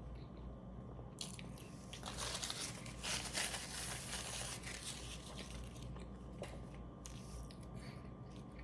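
Close-miked biting and chewing of a burger and fries, crunchy and wet, loudest from about two to four seconds in.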